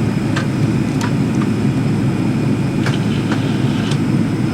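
Steady low rumble of an airliner's cabin noise as the plane taxis after landing, with a few faint clicks and rattles.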